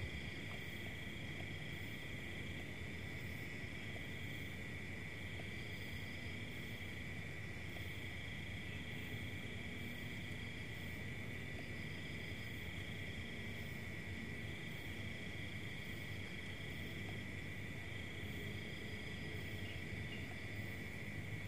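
Night insects trilling steadily: one continuous high-pitched drone, with a second, higher trill that keeps breaking off and starting again.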